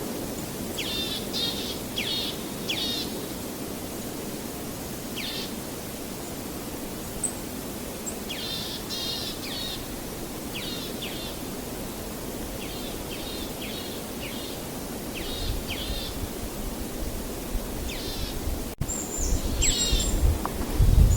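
Small birds chirping in short, quick series of notes, again and again, over a steady low rushing background. Low rumbling comes in and grows louder near the end.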